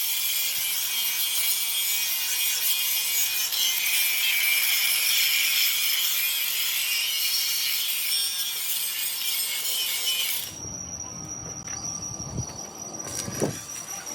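Harsh, steady hissing and rasping of a tool working heavy steel plate. It cuts off abruptly about ten and a half seconds in, and a quieter, different background follows with a thin high tone.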